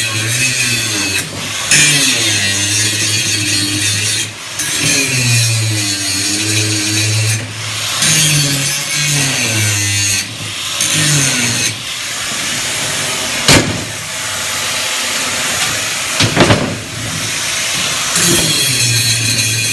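Angle grinder grinding down weld seams on steel, a loud hissing grind whose motor pitch sags and recovers as the disc is pressed into the metal and eased off. A couple of sharp knocks come through about two-thirds of the way in.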